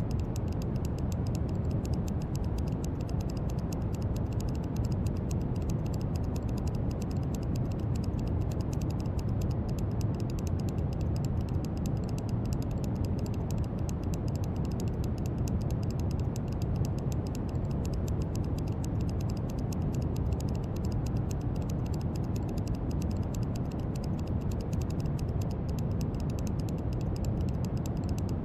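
Steady brown noise: an even, unbroken hiss weighted heavily toward the low end, with no change in level.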